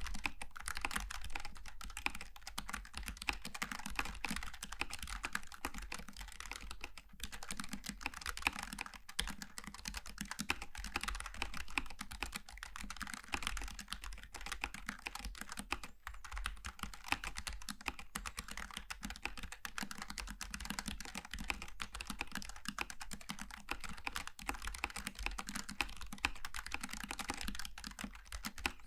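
Continuous fast typing on a Logitech G915 TKL low-profile mechanical keyboard with tactile switches: dense, quick key clicks with only brief pauses.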